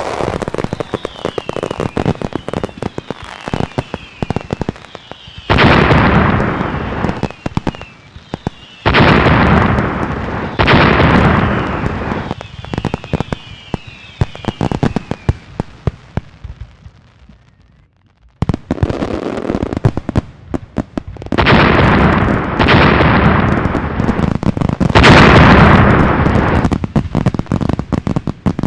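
Fireworks display: a series of loud shell bursts, each ringing on for a second or more, with crackling and short falling whistles in between. The barrage dies away briefly a little past the middle and then starts again with more bursts.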